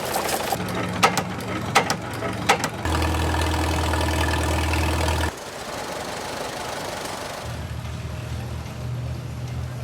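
Antique engines running in several short clips cut one after another, each a steady engine hum at a different pitch. In the first few seconds, three sharp bangs come about three-quarters of a second apart.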